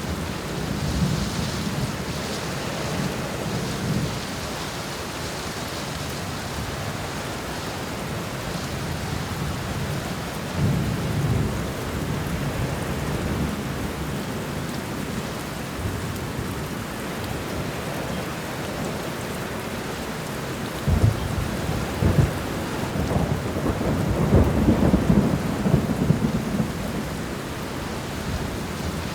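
Steady rain with thunder: low rumbles about a second in and again about ten seconds in, then a sharp clap about twenty-one seconds in, followed by a long rolling rumble.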